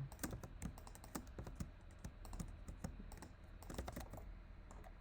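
Computer keyboard keys being pressed in quick irregular taps and short runs, mixed with mouse clicks, as Blender shortcuts are worked.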